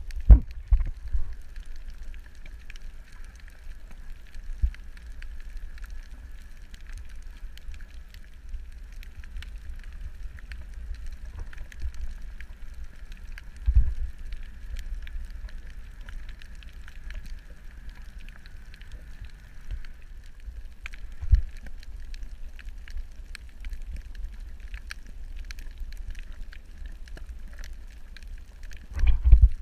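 Underwater ambience: a steady low rumble with scattered clicks and crackle throughout, and a few dull thumps, the loudest near the end.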